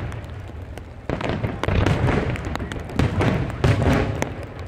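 Aerial fireworks shells bursting: several booms, the first about a second in, with crackling in between.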